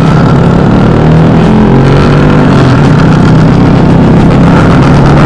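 Motorcycle with a loud aftermarket exhaust running steadily under way, its pitch rising a little partway through.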